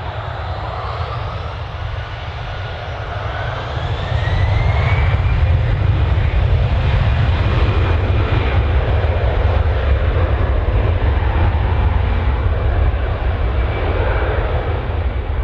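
Airliner engines running loud, with a heavy low rumble; a whine rises in pitch over a few seconds and the noise swells about four seconds in, then holds.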